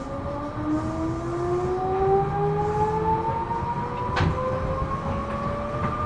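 Seibu New 2000 series electric train heard from inside the car: its traction motors whine in several tones that rise steadily in pitch as the train gathers speed. The whine runs over a low rumble of the wheels, with a few sharp knocks, the loudest about four seconds in.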